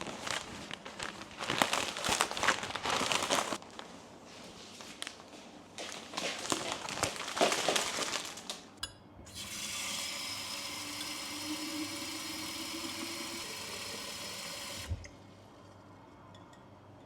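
Crinkling, rustling handling noises in two spells, then water running steadily, like a tap, for about five seconds before it is cut off sharply.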